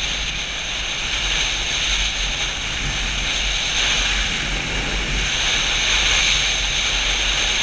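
Steady wind rush on the microphone over the running engine and road noise of a Yamaha FZ-07 motorcycle being ridden, growing slightly louder.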